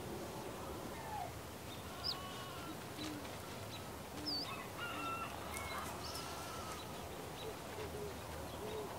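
Birds calling over a steady hiss: scattered short chirps and calls at several pitches, the loudest two sharp high calls about two seconds in and a little after four seconds.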